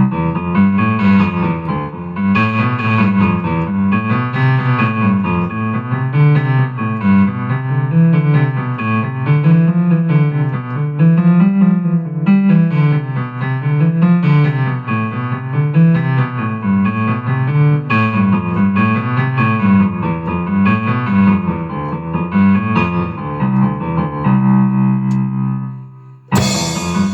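Electric piano/keyboard playing a rolling arpeggio, its bass notes climbing and falling in a repeating wave, then a held chord that fades. Near the end a loud cymbal crash comes in as the drum kit joins.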